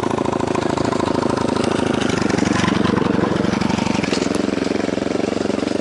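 A small engine running steadily and loudly, with an even, rapid pulsing.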